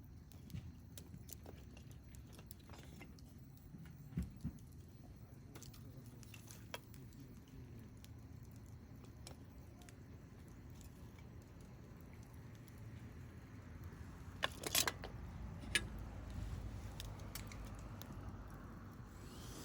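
Wood campfire crackling, with scattered small ticks and a few louder pops, a cluster of them about fifteen seconds in, over a low rumble.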